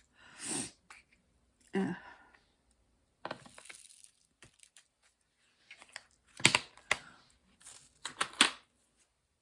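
Short bursts of rustling and crinkling, like plastic being handled, about five times, with the two sharpest near the end.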